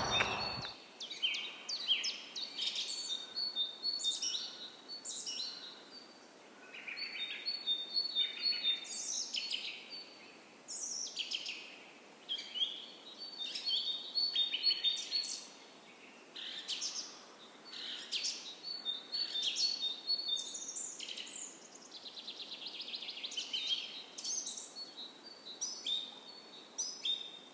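Songbirds singing: short phrases of chirps, trills and clear whistles, repeating every second or two.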